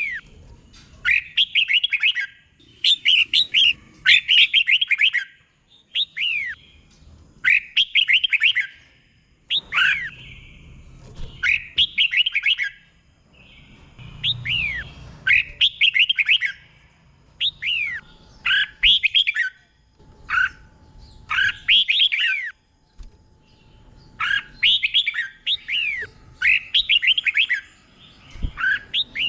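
Red-whiskered bulbul singing: short, bubbly phrases of quick falling whistled notes, repeated every second or two with brief pauses between them.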